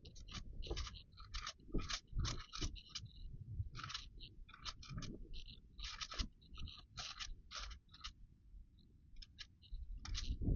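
Thin Bible pages being turned and handled: irregular crisp rustles and crinkles of paper, several a second, thinning out for a moment about three quarters of the way through.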